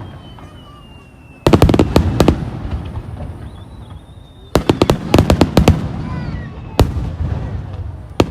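Aerial fireworks bursting in rapid volleys of sharp bangs: a dense cluster about a second and a half in, another from about four and a half seconds, then single bangs near the end. A faint whistle falling in pitch runs through the quiet opening.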